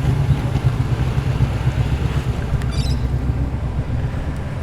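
Deep, low engine rumble of a muscle car rolling slowly past at low revs, fading gradually toward the end.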